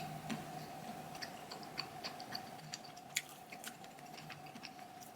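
Quiet chewing of a chocolate-hazelnut chewy bar: faint, irregular little crunches of nuts and chocolate being bitten down, over a faint steady hum.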